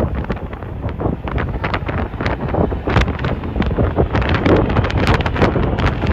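Strong wind buffeting the microphone in rapid, uneven gusts.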